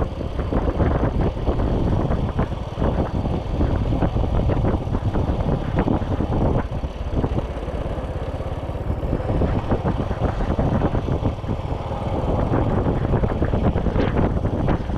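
Motorcycle engine running during a ride, with wind buffeting the camera microphone; the engine eases off briefly about halfway through, then picks up again.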